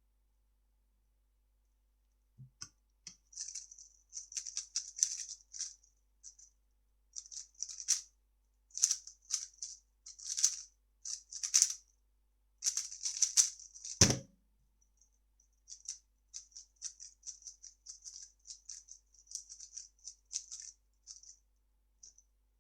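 Plastic 3x3 speedcube being turned fast in a timed solve, layers clicking in quick rattling bursts for about eleven seconds, ending in a single thud about fourteen seconds in. After that, lighter and more even cube turning.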